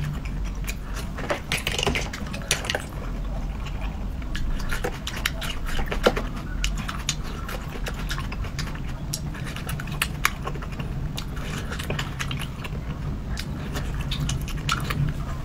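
Close-miked chewing and wet mouth sounds from eating chili-sauced seafood, with scattered sharp clicks and light taps of chopsticks on a metal tray, over a steady low hum.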